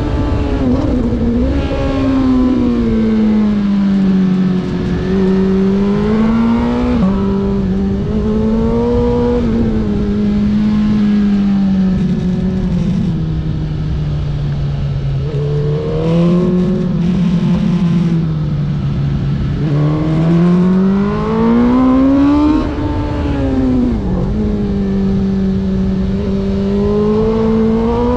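Race vehicle engine under racing load, its pitch repeatedly climbing and falling, with sudden drops about 7 and 23 seconds in, over a steady rush of wind and road noise.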